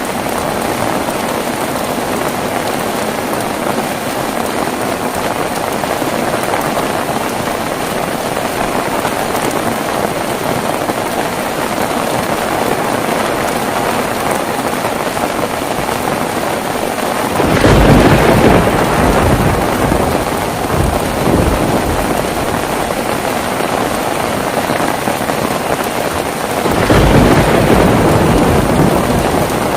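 Heavy rain falling steadily, with two rolls of thunder: one a little past halfway and one near the end, each starting suddenly and fading over a few seconds.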